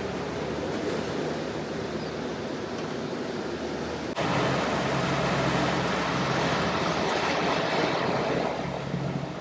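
Motor yacht underway: a steady low engine hum under the rush of water and wind. It jumps louder suddenly about four seconds in.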